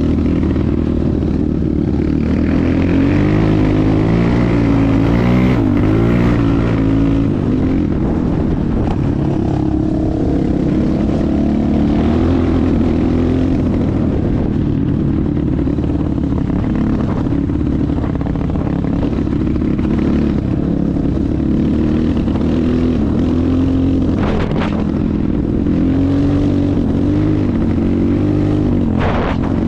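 250 cc enduro motorcycle engine running under way on a trail, its revs rising and falling continuously as the rider works the throttle, with a couple of short knocks near the end.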